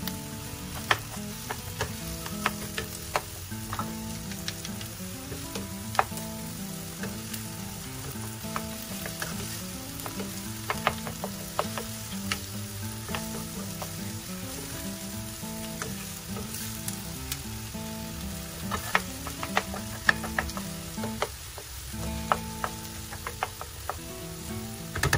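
Diced onion, red capsicum and chicken patty sizzling in butter and olive oil in a non-stick skillet, stirred with a spatula that clicks and scrapes against the pan many times.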